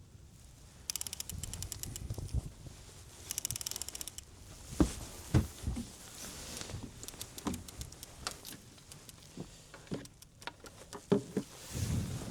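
Fishing reel being cranked in two short runs, giving a quick, even ticking, followed by scattered sharp clicks and a few knocks.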